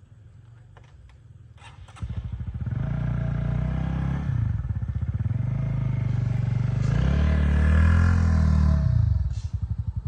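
A motorbike engine comes in suddenly about two seconds in after a few light clicks, is revved up twice, and drops back to a steady idle near the end.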